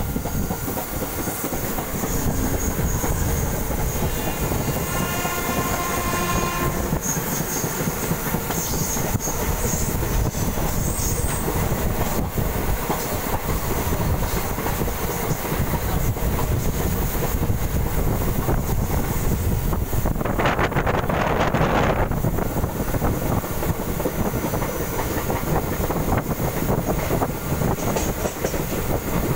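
Mumbai suburban electric local train running, with a steady rumble and the wheels clattering over the rails. Roughly 4 to 7 seconds in a high, steady whining tone sounds, and about 20 seconds in a louder rush of noise lasts a couple of seconds.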